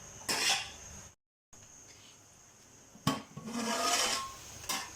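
Cooking pot and utensils handled: a short scrape near the start, then a knock followed by about a second of metal scraping, and another knock near the end.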